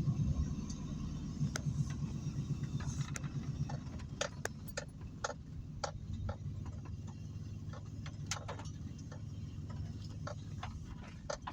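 Heavy rain: irregular sharp ticks of water drops falling on a hard surface over a low, steady rumble that is loudest at the start and eases over the first few seconds.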